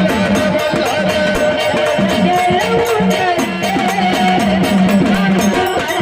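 Marathi folk music in the Malhar geet style, with a fast, steady drum beat under a melody.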